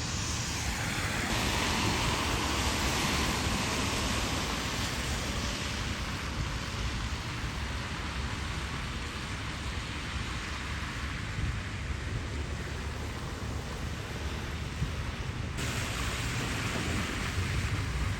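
Steady outdoor rushing hiss with a fluctuating low rumble of wind buffeting the microphone in a snowstorm. The hiss brightens about a second in and eases a little near the end.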